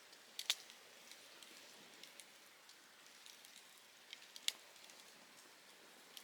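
Softwood campfire burning in a Picogrill 398 fire stand, crackling faintly with scattered sharp snaps. There are two loud pops, one about half a second in and one about four and a half seconds in.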